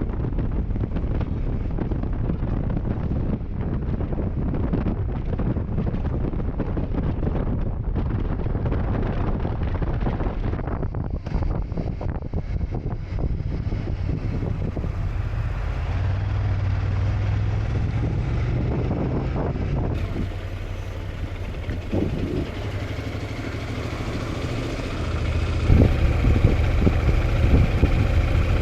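Wind rushing over the microphone while riding a Honda NC750X motorcycle, with the low drone of its engine and road noise underneath; it gets louder near the end.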